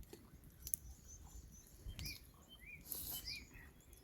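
Faint bird chirps over quiet outdoor background: a thin high call about a second in, then three short, arched chirps in the second half.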